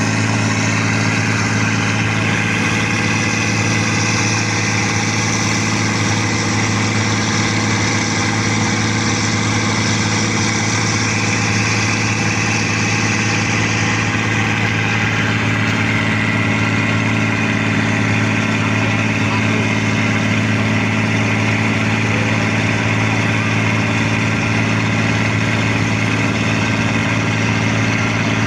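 Fishing boat's inboard engine running steadily at a constant speed, one unchanging low engine note throughout.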